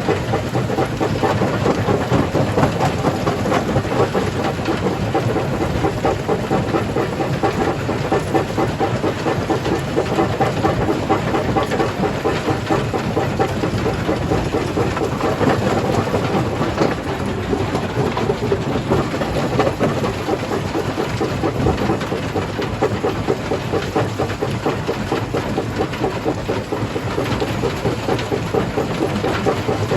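Jaw crusher running and crushing rock: a continuous, dense clatter of breaking and tumbling stone over the machine's steady rumble.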